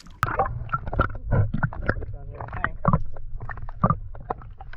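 Water splashing and sloshing against a kayak with irregular knocks and rattles, as a double hook-up of fish is hauled to the side of the kayak, over a steady low rumble of water.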